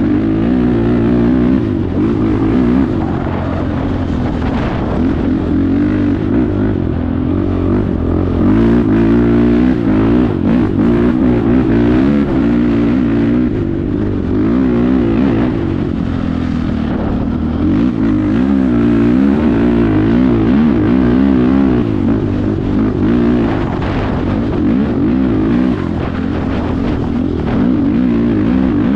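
Honda TRX 450R quad's single-cylinder four-stroke engine running through an aftermarket HMF exhaust while being ridden, its pitch rising and falling over and over as the throttle is worked.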